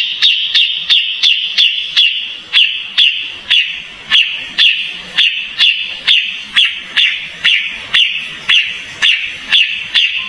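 Kapas tembak songbird calling a rapid, evenly repeated sharp chirp, about two to three notes a second.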